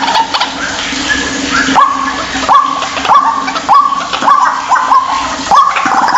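White-breasted waterhen calling: a run of short, quickly rising notes, about one and a half a second, over a steady hiss.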